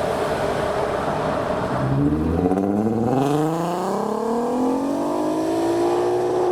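A modified car's engine accelerating hard as it pulls away, its pitch climbing steadily for about four seconds, after a couple of seconds of rushing engine and exhaust noise.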